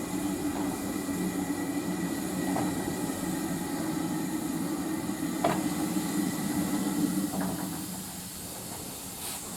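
A train running on the heritage railway: a steady low hum with a few short knocks, fading away about eight seconds in.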